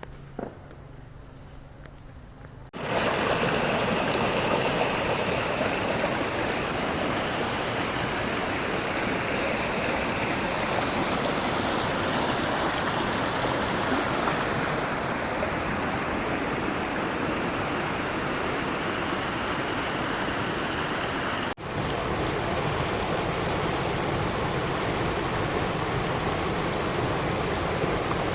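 Steady rush of fast-flowing water, coming in suddenly about three seconds in after a quiet start, with a momentary break near the end.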